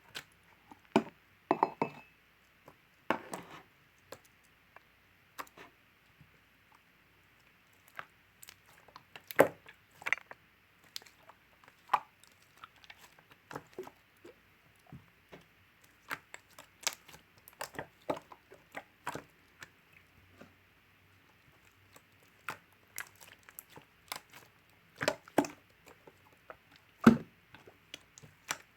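Marbled mixed slime being squished and stretched by hand, giving irregular sharp clicks and small pops as air pockets burst, a few of them much louder, over a faint steady hiss.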